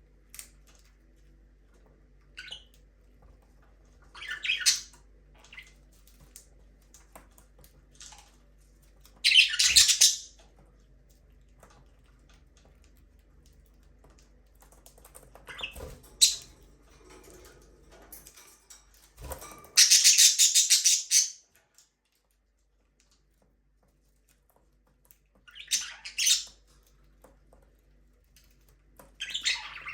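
Budgerigars chirping and squawking in short high-pitched bursts with quiet pauses between them, the loudest a rapid chattering run of about two seconds in the middle.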